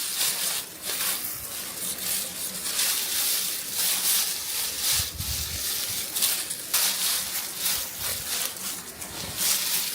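Dry rice stalks rustling and crackling in irregular strokes as they are handled, with a couple of dull low thumps.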